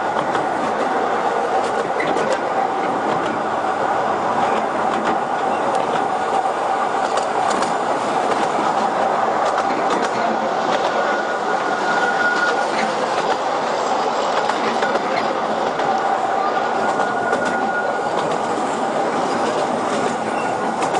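Narrow-gauge tourist train in open-sided carriages running along a mountain line, heard from on board. Wheels on rail make a steady rumble with scattered clicks, and there is a brief wheel squeal about halfway and another a few seconds later.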